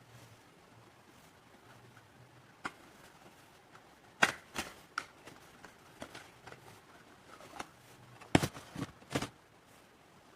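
Packaging being handled during an unboxing: scattered sharp clicks and light taps. There is a single click about two and a half seconds in, a cluster around four seconds, and the loudest run of clicks just before nine seconds.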